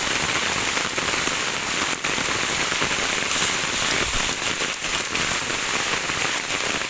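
Steady rain falling: an even hiss of water with many small drop impacts ticking throughout.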